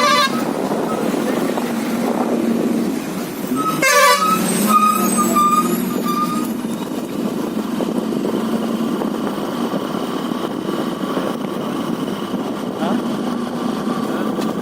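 Motorcycle engine running steadily under riding noise, with a vehicle horn honking briefly at the start and again about four seconds in, the second honk trailing into a held tone for about two seconds.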